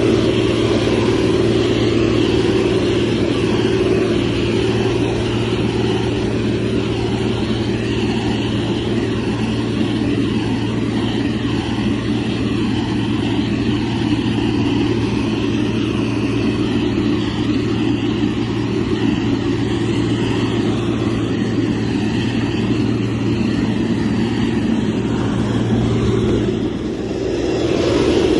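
Motor grader's diesel engine running steadily under work, a continuous low drone. The engine eases off briefly near the end, then picks back up.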